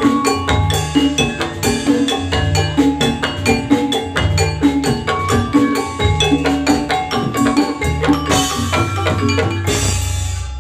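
Instrumental jathilan accompaniment with no vocals: Javanese gamelan metallophones ringing out fast, even notes over a driving drum beat. Near the end the beat stops and a low tone rings on.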